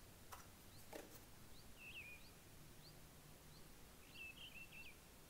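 Faint birdsong: short, quick chirping phrases repeated a few times, with single chirps in between. Two soft clicks come in the first second.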